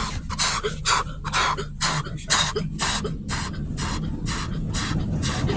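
Automatic car wash equipment heard from inside the car: a rhythmic swish of spray or brushes about four times a second over a steady low rumble, giving way to a continuous rush near the end.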